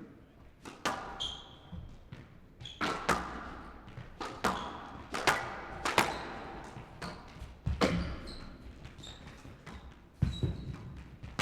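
Squash rally: the ball is struck by rackets and cracks off the walls in sharp hits every second or so, with brief squeaks of shoes on the court floor between shots.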